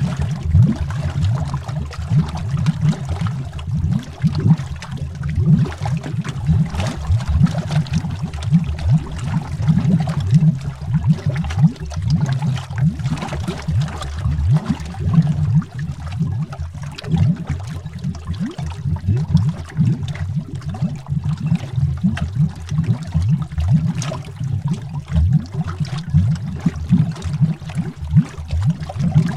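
Water bubbles heard underwater: a dense, low, continuous bubbling with no pauses.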